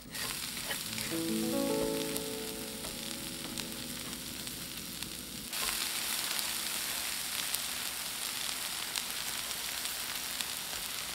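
Seasoned namul stems stir-frying in a hot cast-iron pan with a steady sizzle, stirred with wooden chopsticks. The sizzle grows louder about halfway through.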